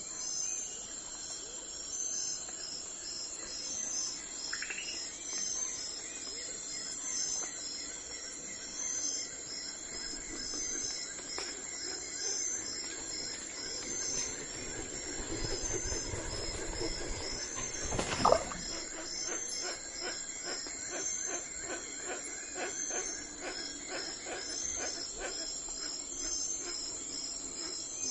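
Crickets chirring in a steady pulsing rhythm. Partway through, a low rumble builds, a brief loud tone sounds about two thirds of the way in, and quick regular clicking follows.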